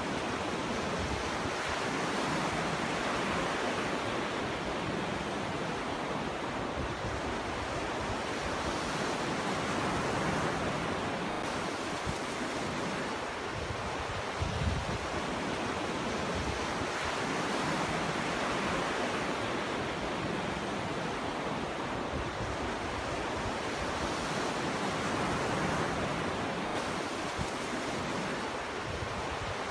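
Ocean surf breaking on a beach: a continuous wash of waves that swells and eases roughly every seven or eight seconds, with a short low thump about halfway through.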